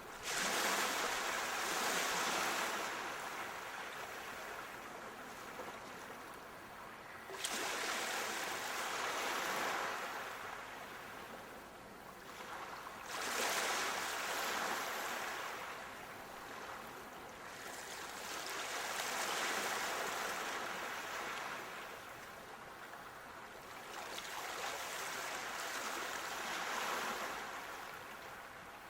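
Ocean waves washing onto a shore, five surges about every six seconds. Each comes in sharply with a hiss of foam, then fades as it draws back.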